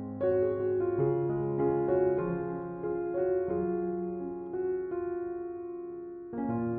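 Background music: soft piano playing slow sustained notes and chords.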